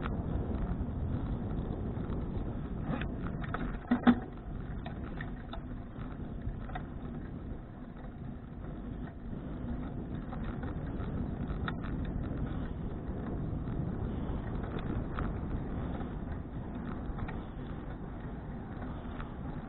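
Riding noise from a touring bicycle: a steady low rumble of tyres on the road and wind on the action camera's microphone. There is one sharp knock about four seconds in and a few lighter clicks.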